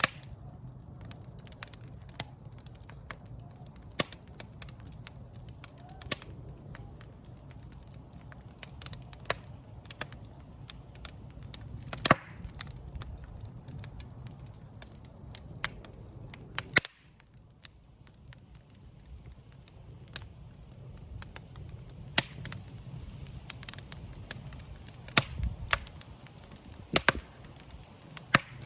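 Wood fire in a fireplace crackling: irregular sharp pops and snaps of burning wood over a steady low rumble of the flames. The low rumble dips for a few seconds a little past the middle.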